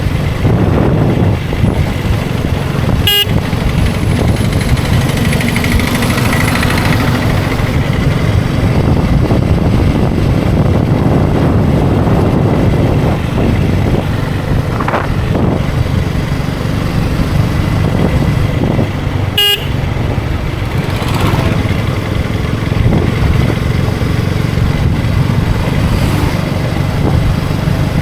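KTM Duke 250's single-cylinder engine running steadily at cruising speed, with wind rushing over the microphone. Horns from other traffic sound faintly at times, and two sharp clicks come about 3 and 19 seconds in.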